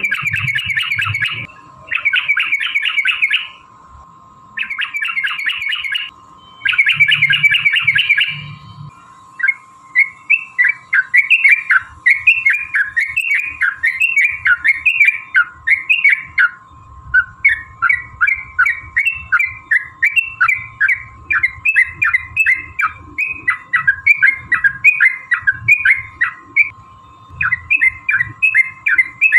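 Yellow-vented bulbul (trucukan) singing. It opens with four quick bursts of rapid chattering notes, each about a second and a half long. After that comes a long run of short, fast, up-and-down phrases, the long 'ropel' song. A faint steady hum runs underneath.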